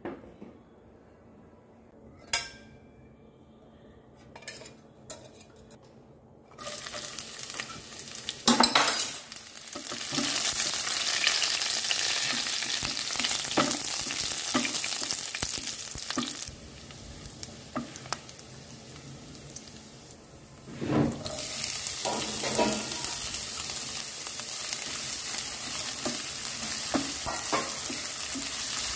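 After a quiet start with a few light clicks, hot oil starts sizzling about seven seconds in: chopped garlic fries and crackles in a nonstick wok while a spatula stirs it. After a quieter stretch, chopped red onion goes in and fries with a steady sizzle as it is stirred, with occasional spatula knocks on the pan.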